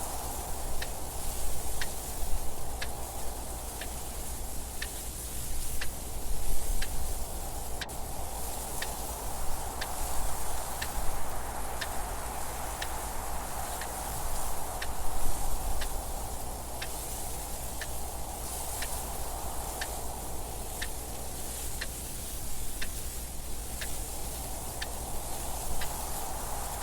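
A clock ticking at an even pace over steady wind noise that swells and eases every few seconds, with a low rumble beneath.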